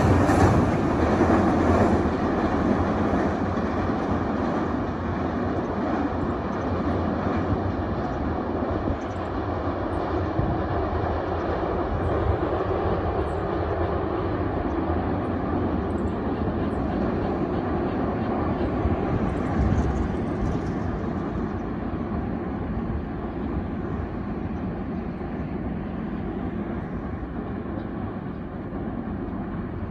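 Container freight train rumbling across a steel truss railway bridge, loudest at first and fading steadily as the train draws away over the river.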